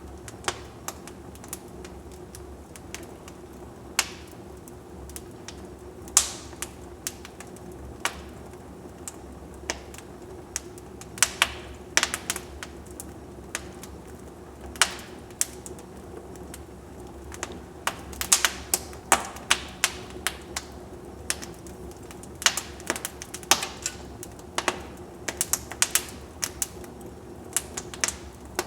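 Wood fire burning in a fireplace: irregular sharp crackles and pops, some loud snaps, over a steady low hiss of flame, busiest in the second half.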